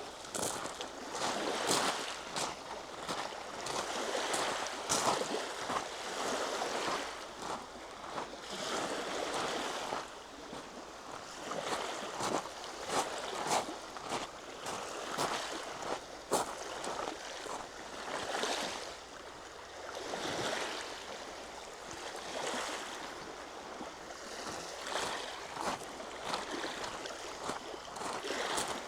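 Footsteps along an outdoor trail, a short sharp step every half second or so, over a steady rushing background that swells and eases, as of wind or lake surf.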